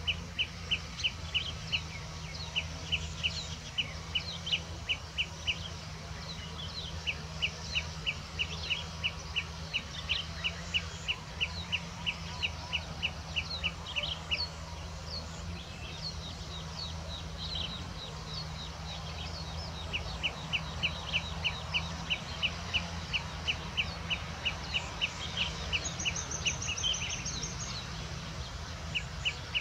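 Birds calling: one repeats a short, sharp chirp about three times a second in long runs that stop and restart, among scattered chirps of other birds, with a brief high trill near the end.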